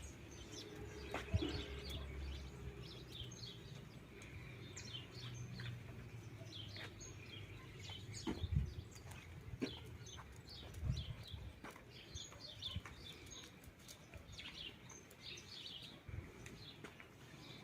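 Birds chirping, many short calls one after another, over a low background hum, with a few dull thumps now and then.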